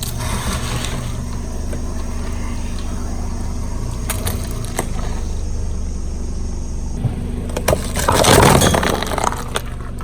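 A car engine running steadily, with a few sharp cracks and then a loud crunching burst about eight seconds in, lasting about a second, as a car tyre rolls over and crushes an object.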